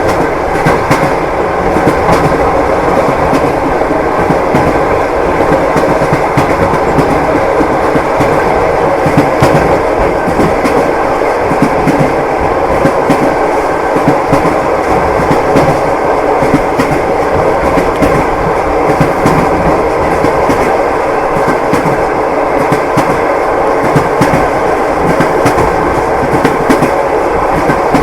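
Train wheels clattering over the rails in a steady run, with the continuous rumble of a moving passenger carriage, heard from inside the compartment.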